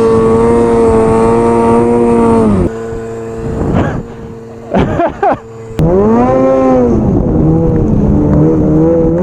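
Snowmobile engine running at high revs with a steady note, which drops off abruptly about two and a half seconds in to a quieter, steady note with a couple of quick revving swoops. About six seconds in it comes back loud, revs up and back down, then holds steady.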